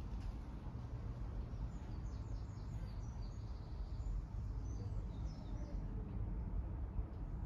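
Small birds chirping faintly in quick, short high notes from about two seconds in until about five and a half seconds, over a low steady rumble.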